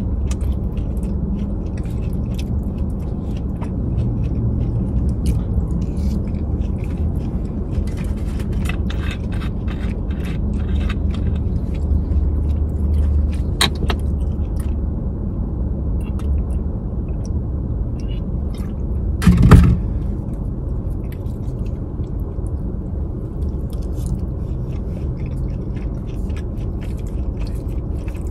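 Close-miked chewing of a rice and lettuce burrito bowl, with a fork clicking and scraping in the bowl, over a steady low rumble. About twenty seconds in, one short loud thump stands out above the rest.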